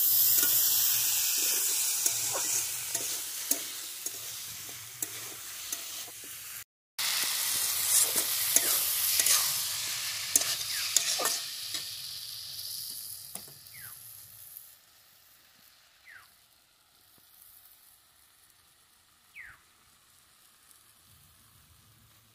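Tomatoes and spice paste sizzling in a metal kadai over a wood fire, with a metal spatula stirring and scraping the pan in frequent clicks. The sound cuts out briefly about seven seconds in; after about twelve seconds the sizzle fades to faint, leaving a few short high chirps.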